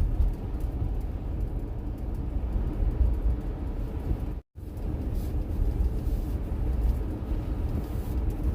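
Steady low rumble of a car driving along the road. The sound drops out completely for an instant about halfway through.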